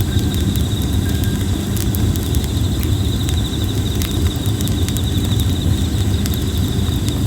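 Campfire of plum wood crackling, with irregular sharp pops over a steady low rumble. A steady pulsing insect trill runs behind it.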